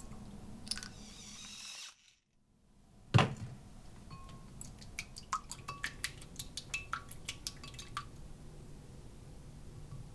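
Kitchen dishes and utensils clinking: one loud knock about three seconds in, then a run of light clinks and taps, some with a short ring.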